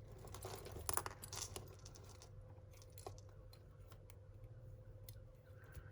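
Faint clicking and light clinking of costume jewellery, with chains and beads being handled while necklaces are untangled. The clicks are busiest in the first two seconds and sparser after, over a faint steady low hum.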